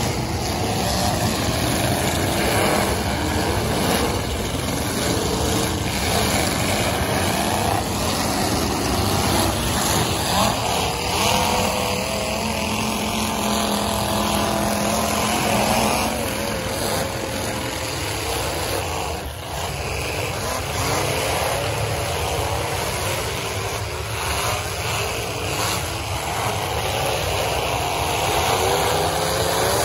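Engines of several full-size demolition derby cars running hard and revving at once, their pitch rising and falling as they push and jockey in the pit.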